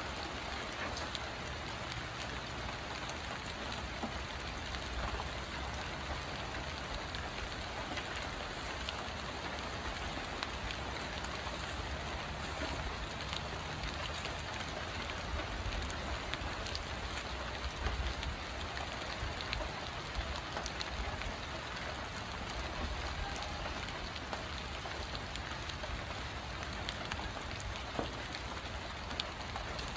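Steady light rain falling, with scattered single drops ticking close by and a low rumble underneath.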